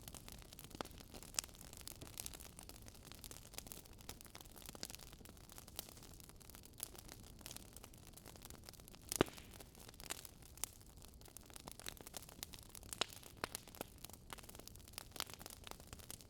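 Wood fire crackling: irregular faint pops and snaps over a low hiss, with one louder pop about nine seconds in.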